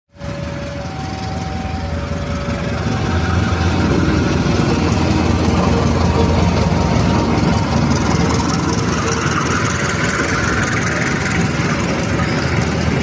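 Diesel train running past, its engine noise building over the first few seconds and then holding steady.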